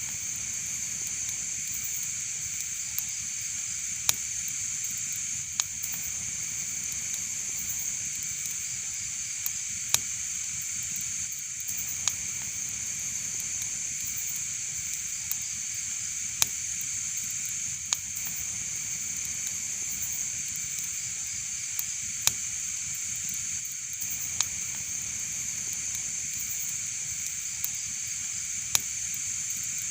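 Wood fire burning in a fireplace: a steady hiss with sharp crackling pops every few seconds.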